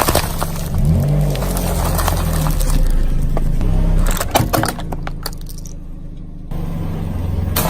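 A vehicle engine running, its pitch rising about a second in, with a cluster of sharp cracking, crunching snaps around four to five seconds in as something is crushed.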